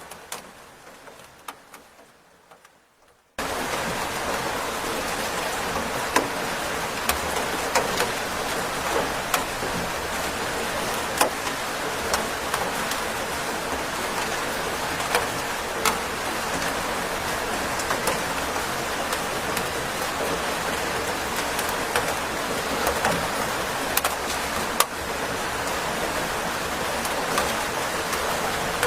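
Steady rain with many sharp drop ticks. It starts suddenly about three seconds in, after a quieter stretch of rain fades away.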